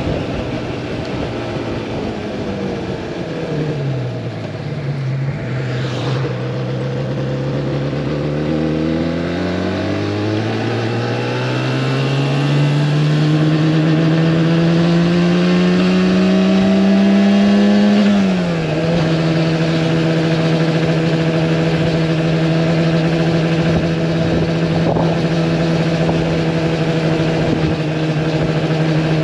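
Yamaha R1-Z's two-stroke parallel-twin engine under way: its pitch falls for the first few seconds as the bike slows, holds briefly, then climbs steadily for about ten seconds under acceleration. It drops sharply at an upshift and then runs at a steady cruise.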